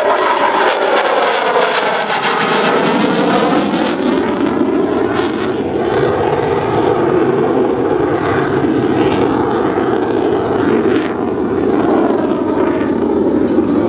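Jet engine noise of a USAF F-16C fighter flying its display, loud and continuous, with a slowly shifting, swirling quality in the first few seconds as it passes.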